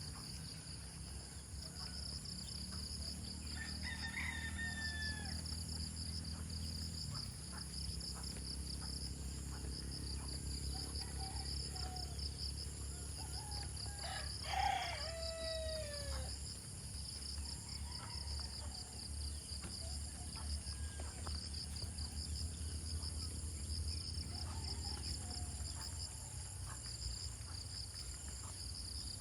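Rooster crowing twice, a fainter crow about four seconds in and a louder, longer crow about halfway through that ends on a falling note, over the steady pulsing chirr of insects and a low steady hum.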